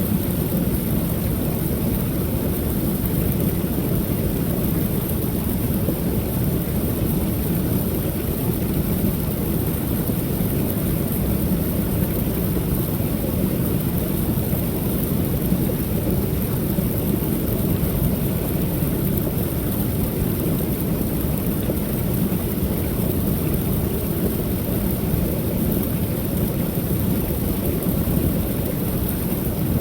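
Creek waterfall pouring steadily: an even, deep rush of falling water that never changes.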